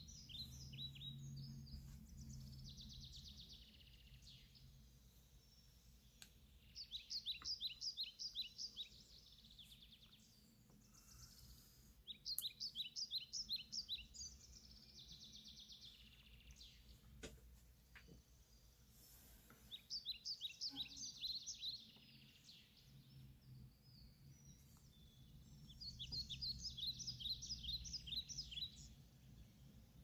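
A songbird singing short phrases of rapid, repeated high chirps, each phrase about two seconds long and coming back every six seconds or so, over a low steady hum.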